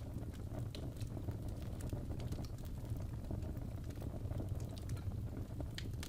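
Wood fire burning in a fireplace: a steady low rumble with irregular small crackles and pops.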